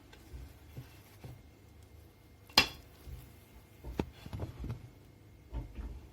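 Scattered knocks and clinks of a spoon on kitchenware as cookie dough is portioned onto a baking tray, with one sharp ringing clink about two and a half seconds in the loudest.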